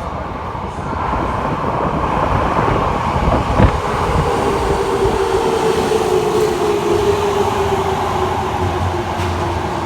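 Subway train running along the platform of an underground station, with a steady motor whine that slowly falls in pitch. A single sharp knock sounds about three and a half seconds in.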